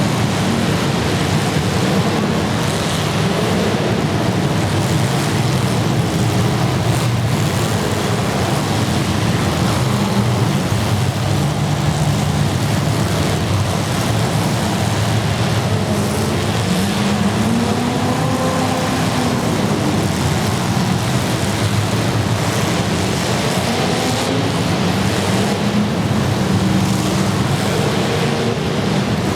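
Several demolition derby cars' engines running and revving at once, loud and continuous, with one engine's pitch climbing and falling about two-thirds of the way through.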